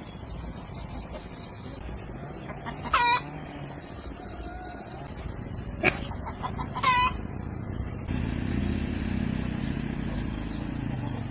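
Chickens calling in short, sharp squawks, twice: about three seconds in and again about seven seconds in. A sharp knock comes near six seconds, and a low steady rumble sets in from about eight seconds.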